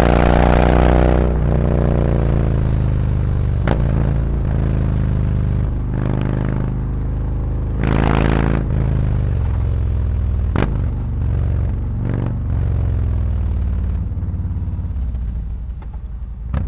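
Harley-Davidson Road Glide's V-twin engine running through SuperTrapp 4-inch slip-on mufflers while riding, with the exhaust rising on the throttle at the start and again about halfway through, then easing off near the end. There are a couple of sharp clicks along the way.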